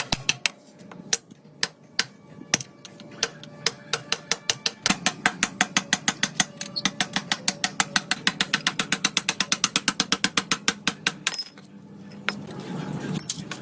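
Sharp mechanical clicks, typical of a ratchet or hand tool being worked on motorcycle parts: irregular at first, then a fast even run of about five clicks a second for several seconds, stopping near the end. A low steady hum comes in just before the end.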